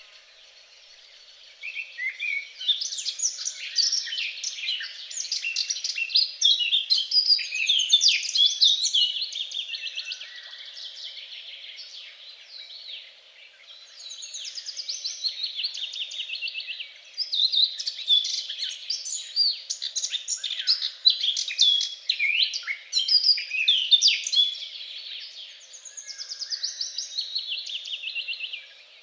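Songbirds singing in long runs of rapid, varied chirps and trills, with a few short lulls.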